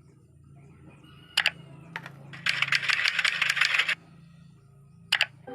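A quick run of light clicks and rattles, like small hard plastic pieces being handled, with a single click or two before it and another near the end.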